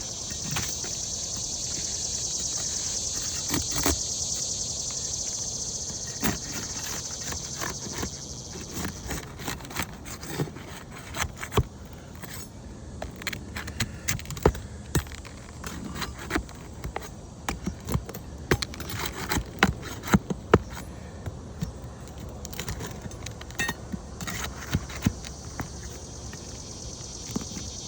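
Metal pry bar and snake bar working asphalt roof shingles: irregular sharp clicks, taps and light metallic clinks of the tools on the shingles and nails, coming thickest in the second half. A steady high buzz sits behind the first eight seconds or so and comes back near the end.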